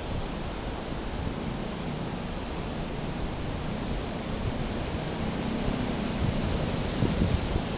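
Steady wind rushing and buffeting over a bike-mounted action camera's built-in microphone, with low gusty rumbles that grow stronger near the end, in windy, rainy typhoon weather. A faint low hum comes and goes twice in the middle.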